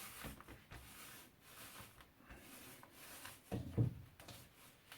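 Small paint roller rubbing wax onto plastic bee foundation, heard as a run of faint scratchy strokes. A short, louder knock about three and a half seconds in, as a sheet or the roller is handled.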